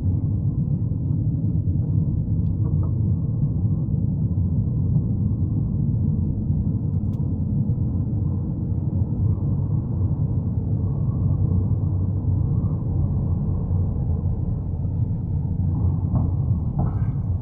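A steady, even low rumble with no clear rhythm or pitch, of the kind a moving vehicle or wind on the microphone makes.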